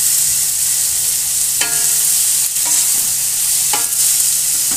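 Onion, tomato and capsicum masala sizzling in hot oil in a steel kadhai while being stirred with a wooden spatula, which scrapes the pan three times, about once a second, over a steady hiss.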